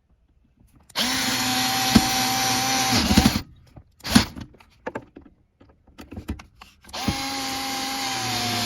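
Power drill driving screws back in: two runs of a steady motor whine of about two seconds each, with a few clicks in between. The second run slows slightly near its end as the screw seats.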